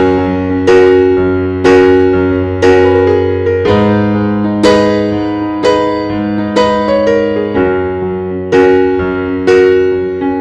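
Soft piano music: slow chords struck about once a second, each ringing and fading, over a held bass.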